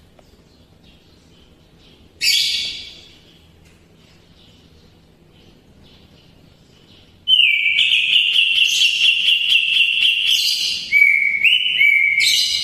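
Greater green leafbird (cucak ijo) singing its mimicked kapas tembak song: a short falling burst of notes about two seconds in, then from about seven seconds a long, loud run of a held whistle with rapid notes over it, stepping down in pitch near eleven seconds and back up just before the end.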